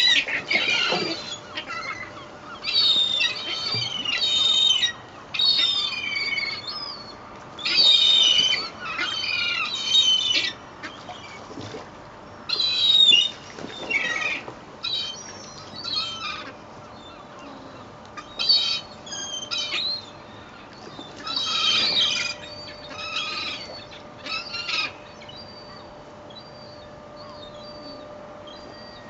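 A flock of gulls calling over one another in repeated bursts of harsh, wavering squawks, typical of gulls squabbling over thrown bread. The calls die down to a few faint ones near the end.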